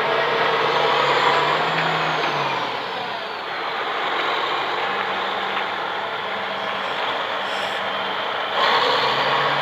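2009 Challenger MT955B four-wheel-drive tractor's diesel engine running. The engine note drops off about three seconds in, then picks up again with a jump in loudness near the end.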